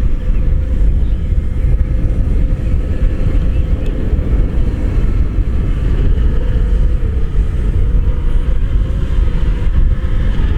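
Rice combine harvester running steadily: a loud, low diesel drone with a steady hum riding on it.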